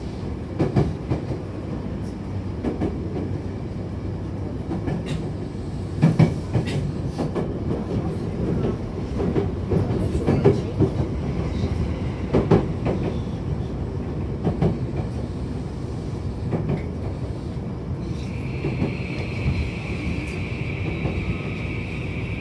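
Tokyu 2020 series electric train with Mitsubishi full-SiC drive braking for a station stop: a steady rumble with the wheels clacking over rail joints. A steady high whine joins about eighteen seconds in.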